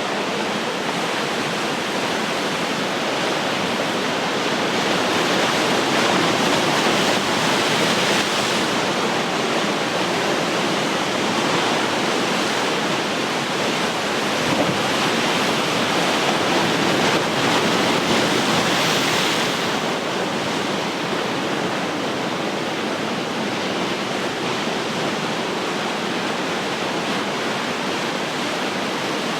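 Ocean surf washing steadily, with a wave swelling and breaking about a third of the way in and another a little past halfway, then easing off.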